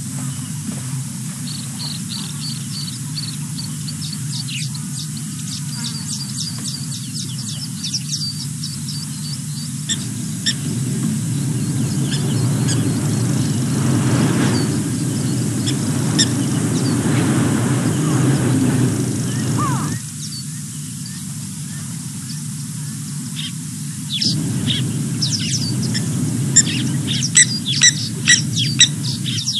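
Small birds chirping in quick runs, busiest near the start and again near the end, over a steady low rumble that grows louder for about ten seconds in the middle.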